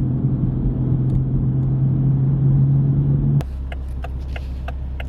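Car engine running steadily under way, heard from inside the cabin as a loud even hum. A little over three seconds in it cuts off abruptly to a quieter idling hum with the regular clicking of a turn signal, about two to three clicks a second.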